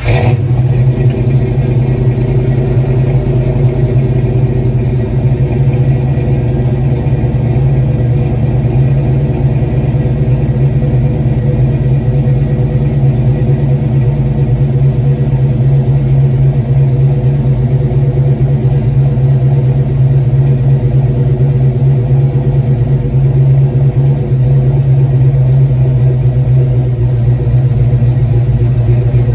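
Ford 5.0 (302) V8 with a Flowmaster 40 Series exhaust, freshly fitted with new valve springs and roller rockers, running loud and steady at an even engine speed.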